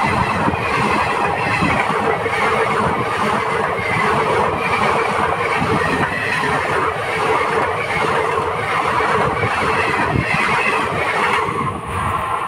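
Passenger coaches of an express train passing close at speed: a loud, steady rush and rumble of steel wheels on the rails, with a steady whine above it. About eleven and a half seconds in, the sound drops to a quieter rumble.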